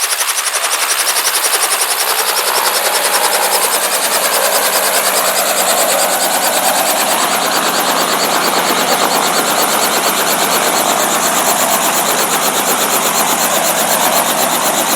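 Helicopter running in flight: a loud, steady rotor and engine noise with a fast, even beat from the blades. A lower rumble grows in over the first few seconds.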